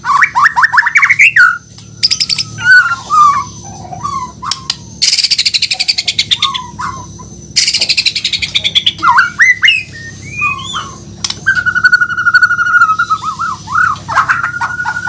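White-rumped shama (murai batu) singing a long varied song: fast sweeping whistles and trills, two harsh rattling passages around the middle, and a long steady whistle in the last few seconds.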